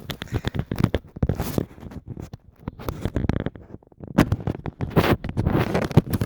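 Handling noise from the recording phone being pried out of its case: irregular scraping, rubbing and clicking right on the microphone.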